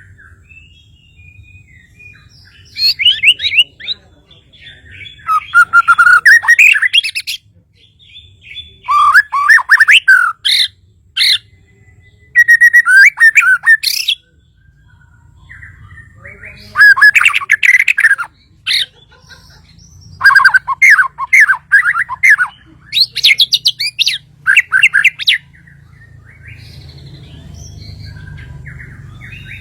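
Kalimantan murai batu (shama) singing: loud, rapid phrases of chattering notes and trills in about eight bouts, with pauses of a second or two between them.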